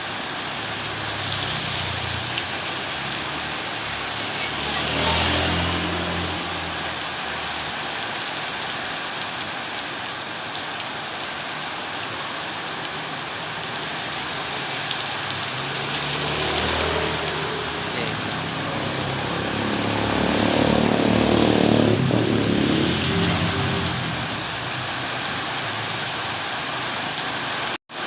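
Steady rain falling, an even hiss throughout. Three times it swells louder with a low rumble: about five seconds in, around sixteen seconds, and longest a little past twenty seconds. The sound drops out for a split second near the end.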